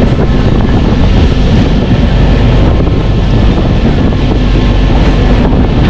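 Loud, steady running noise of a MEMU passenger train, a dense rumble with wind buffeting the microphone.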